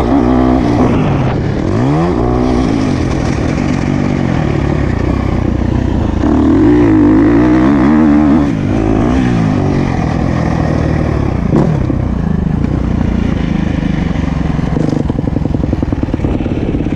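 Motocross bike engine being ridden hard, revs rising and falling with the throttle. There is a loud stretch of high revs about six to eight seconds in that drops off sharply, then steadier running.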